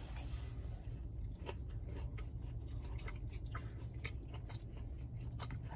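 Someone chewing a tough, hard-to-chew waffle close to the microphone: a scatter of irregular small clicks over a steady low hum.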